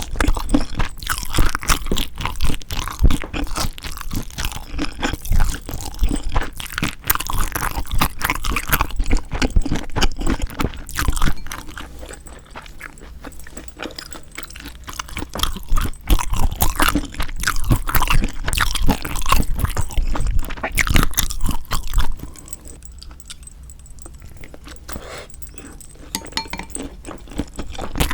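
Close-miked eating of spicy marinated raw shrimp (yangnyeom saeujang): crunching and chewing in quick, irregular clicks. It goes quieter for a few seconds near the middle and again near the end.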